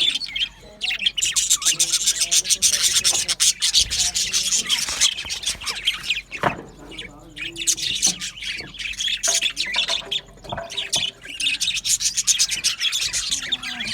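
A colony of budgerigars chattering and warbling together: a dense, scratchy, rapid twittering with no let-up.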